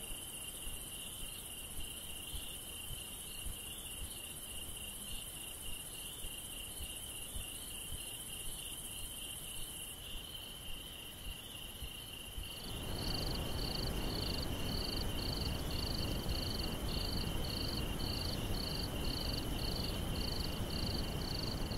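Bush ambience of insects chirring: a steady high, finely pulsing trill throughout. About two-thirds of the way in, a louder hiss and a second, higher chirp repeating about twice a second join it.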